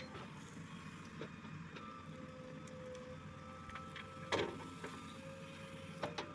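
JCB 3DX Plus backhoe loader's diesel engine running steadily under work, with a faint steady whine and scattered knocks. A single loud clank comes about four seconds in.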